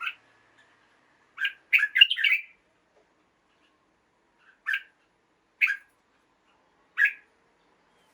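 Red-whiskered bulbul calling in short, clear phrases. A quick run of several notes comes about one and a half seconds in. Single short calls follow about a second apart, and another quick run begins at the very end.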